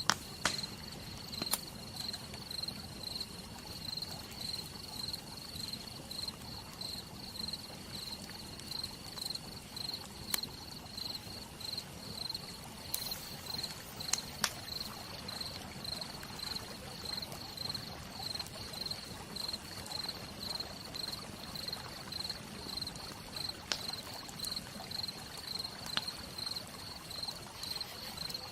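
Campfire crackling with a few sharp, scattered pops over an even hiss of rain, while a cricket chirps in a steady high-pitched rhythm about twice a second.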